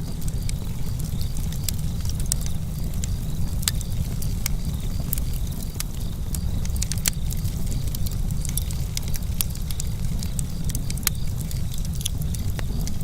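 Campfire crackling: frequent sharp pops and snaps at irregular intervals over a steady low rumble of burning.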